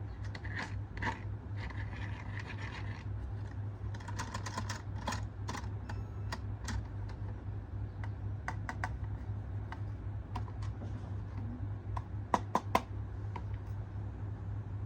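Irregular light clicks and taps of plastic toy parts and packaging being handled, over a steady low hum. Three sharper clicks come close together about twelve seconds in.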